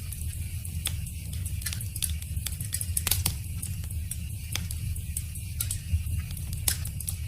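Wood fire crackling: irregular sharp pops and snaps over a steady low rumble, with a few louder pops near the end.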